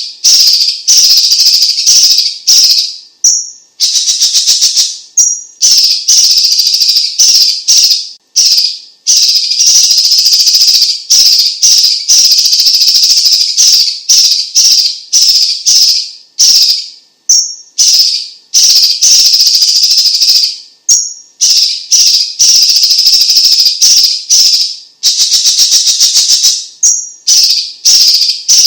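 Orange-bellied leafbird (cucak cungkok) singing a loud, fast rattling song. It comes in high-pitched phrases a second or two long, separated by short breaks.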